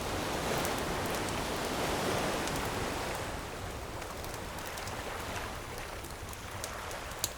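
Ocean wave washing in, swelling over the first couple of seconds and then drawing back, with a bonfire crackling and popping throughout and one sharper pop near the end.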